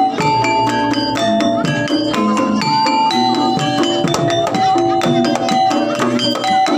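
Jaranan accompaniment from a gamelan ensemble: struck bronze metallophones ringing out a changing melody over drumming, in a steady, busy rhythm.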